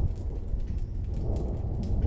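Rain falling in a thunderstorm: a steady low rumble underneath, with scattered sharp ticks of drops on top.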